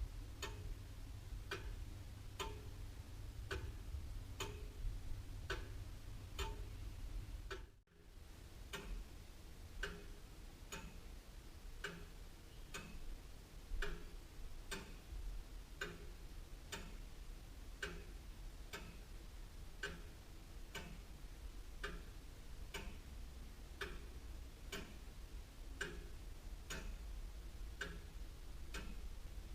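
Mechanical clock movement of an antique William Holliwell of Liverpool clock ticking in a steady, even tick-tock. The sound cuts out for a moment about eight seconds in.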